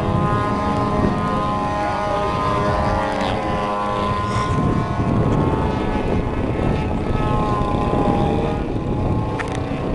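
Engines of two giant-scale radio-controlled aerobatic planes (104-inch Slicks) flying, with a steady propeller drone whose pitch rises and falls as they throttle and pass overhead.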